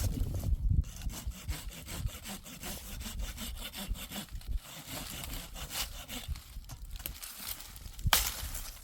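Wood being sawn by hand: a run of rasping back-and-forth saw strokes, with a harder stroke about eight seconds in.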